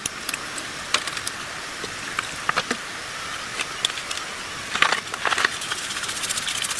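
Scattered light clicks and taps of small metal parts and hand tools being handled, with a cluster of them about five seconds in, over a steady hiss.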